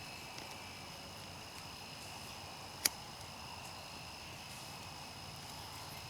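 Crickets chirping steadily in the background, with one sharp click about three seconds in.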